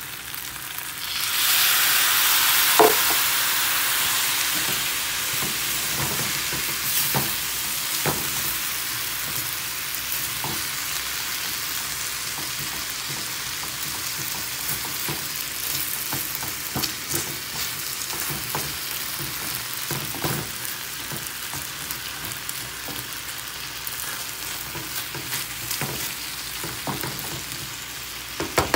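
Chicken and potato strips frying in a pan. A loud sizzle surges about a second in as a little water is poured into the hot pan, then eases into steady sizzling, with scattered clicks and scrapes of a spatula stirring against the pan.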